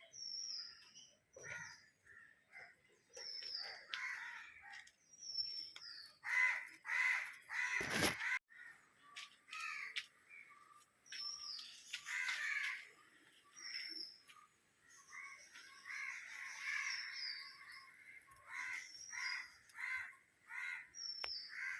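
Birds calling: runs of short repeated calls, with brief high falling whistles every couple of seconds. A single sharp knock sounds about eight seconds in.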